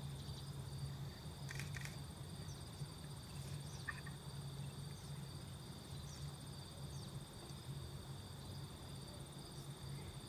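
Steady high-pitched chorus of insects, with a few faint short sounds above it.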